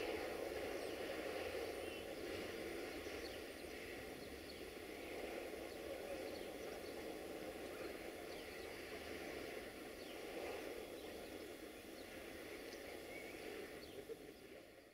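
Freight train hauled by a 060-DA diesel-electric locomotive slowly pulling away, a steady distant rumble of engine and rolling wagons, with birds chirping now and then.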